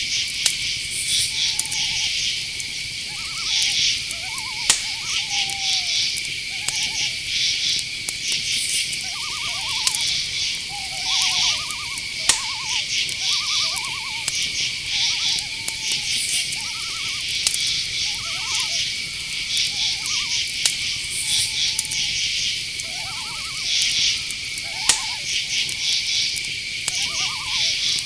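Night-forest chorus: crickets keep up a steady high trill with pulsed insect chirps above it, while owls give short, frequent hooting calls over the top. A few sharp clicks stand out here and there.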